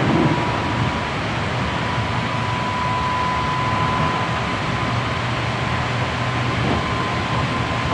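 Inside a Hankyu 7300 series electric commuter car running steadily along the line: an even wheel-on-rail rumble with a thin, steady high-pitched whine running over it.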